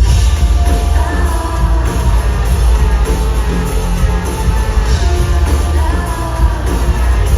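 Live pop-rock band playing loudly with heavy bass and singing.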